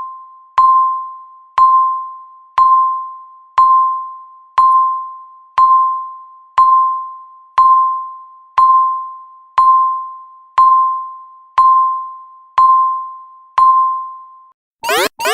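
Electronic countdown-timer beep: a bell-like tone struck once a second and fading, fourteen times. Near the end the count reaches zero and a loud alarm starts, rapid pulses of rising sweeps.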